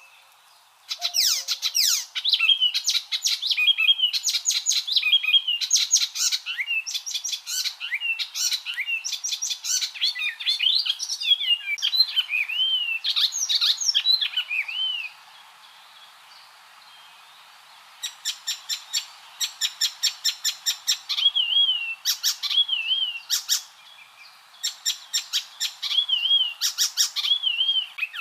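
Icterine warbler singing a fast, varied song of rapid rattling note series mixed with slurred whistles, with a pause of about three seconds just past the middle.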